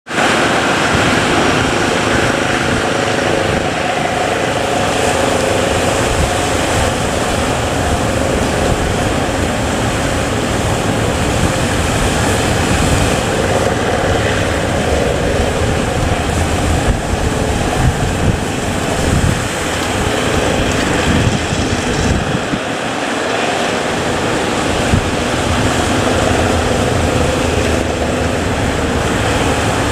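A speedboat's engine running steadily, its pitch wavering a little, over a constant rush of wind and surf.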